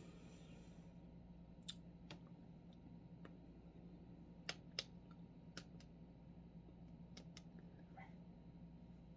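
Near-silent room with a steady low hum and a handful of sharp, scattered clicks at irregular intervals.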